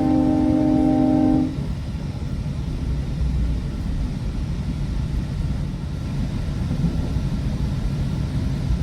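A GO Transit train's multi-note air horn sounds a chord that cuts off about one and a half seconds in. After it comes the steady low rumble of the commuter coach running on the rails, heard from on board.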